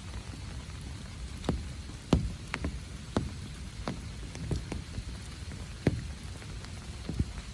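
Rain, with large drops landing close by as sharp, irregular plinks, about eight of them, over a steady low rumble.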